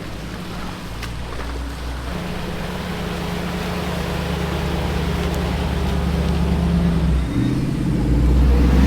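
Off-road truck engine pulling steadily under load while driving through shallow river water. It grows gradually louder, and the revs climb about seven seconds in.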